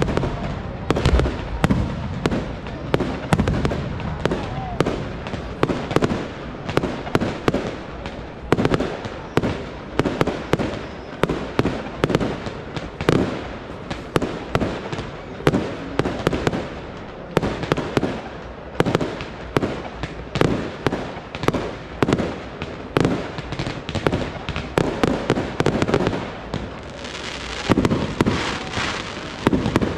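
Aerial fireworks display: shells and cakes bursting in a continuous barrage, about two or three bangs a second, with more hiss and crackle near the end.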